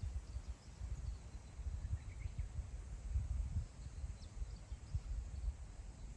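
Wind blowing in uneven gusts as a low rumble, with a few faint, short bird chirps about two and four seconds in.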